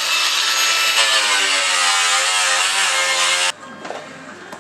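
An electric motor running with a steady hum over a strong hiss, cutting off suddenly about three and a half seconds in.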